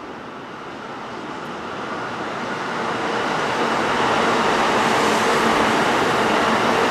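A train approaching on electrified track, its running noise building steadily and levelling off about four seconds in.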